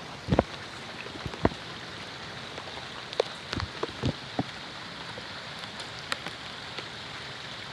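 Steady rain, with scattered louder raindrop strikes landing close by, several in the first half.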